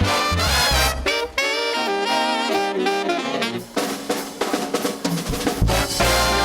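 Jazz music: horns playing a moving melody over bass and drums.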